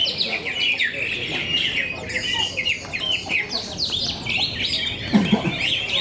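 Several caged green leafbirds (cucak ijo) singing at once, a dense overlapping chatter of rapid chirps, trills and sweeping whistles.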